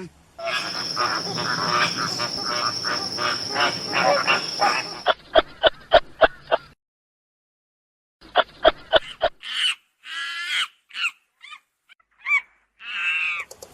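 A run of edited animal sounds. First comes a noisy stretch with a steady high tone over it, then a series of sharp clicks, a short silence, more clicks, and then several short pitched calls near the end.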